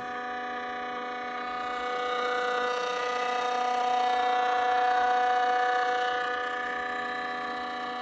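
Stepper motors driving a CNC XY stage, a steady whine of several held pitches that grows louder in the middle, as the stage travels to its home position.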